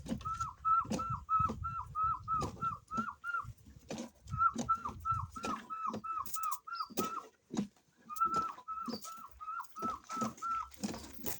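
A bird calling in three quick runs of short, repeated notes, about four a second, with scattered knocks and rustling between them.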